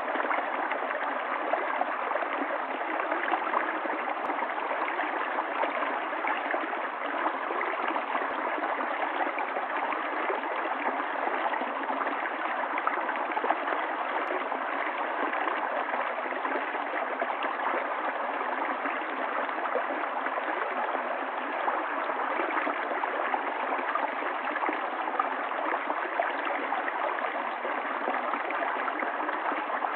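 Water of a stream running steadily, an even rush without deep rumble or high hiss and without any change.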